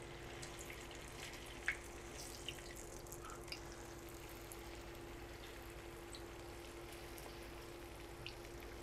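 Batter-coated beef slices frying in shallow oil in a pan: a faint, steady sizzle with a few small pops, over a steady low hum.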